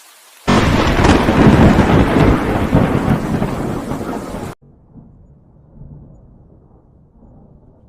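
Thunderclap from a close lightning strike: a sudden loud crack about half a second in, then loud rumbling for about four seconds that cuts off abruptly, leaving a faint low rumble.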